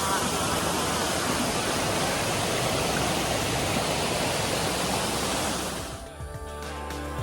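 Waterfall: a steady, even rush of falling water. About six seconds in it cuts off and music begins.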